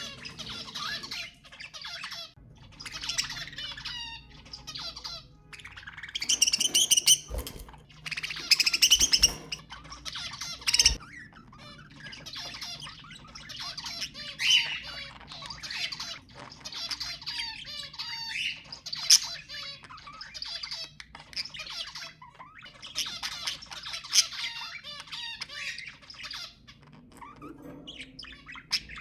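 Budgerigars warbling and chattering without pause, broken by sharp squawks, with a few louder squawking bursts roughly a third of the way in.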